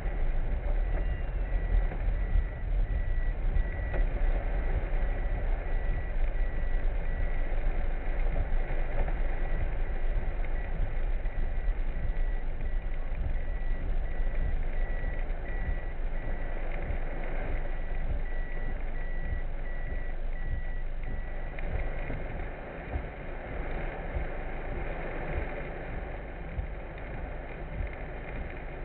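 Steady low rumble of a vehicle on the move, with a fast run of electronic warning beeps at one high pitch that stops near the end.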